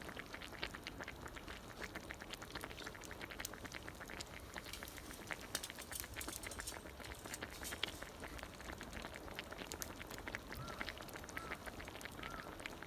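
Campfire crackling with dense, irregular pops and snaps. Near the end a short call repeats about once a second.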